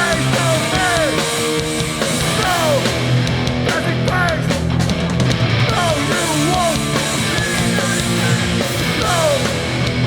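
Hardcore punk band playing live and loud: distorted electric guitars and bass holding sustained chords, with short sliding guitar notes over the top.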